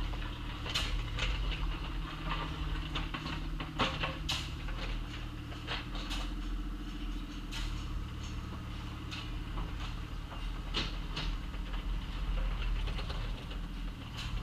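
Excavator's diesel engine running steadily, its pitch dipping briefly about halfway through, with irregular sharp clanks and knocks from the bucket and linkage as it digs.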